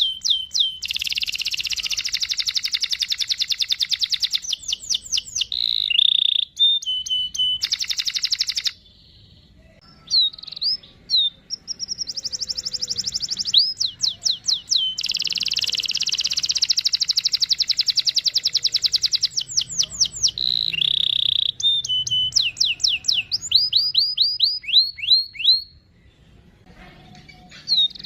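Domestic canary singing: long, fast rolling trills alternating with runs of quick downward-sweeping whistled notes, with two brief pauses, about nine seconds in and near the end.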